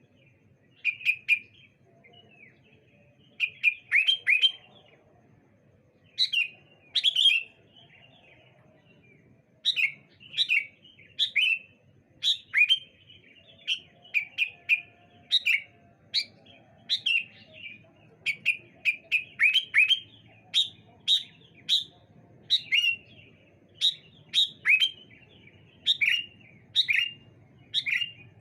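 Sooty-headed bulbuls (kutilang) calling back and forth in short, sharp, downward-sweeping chirps grouped in quick clusters. The calls are sparse at first and come almost without a break from about ten seconds in.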